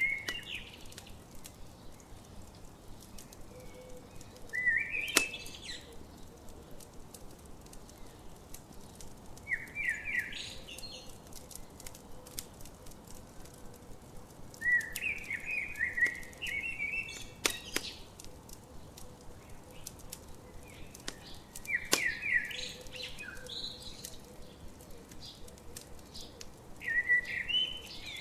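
A songbird repeating a short chirping phrase about every five seconds, over the steady crackle of a campfire with frequent sharp pops.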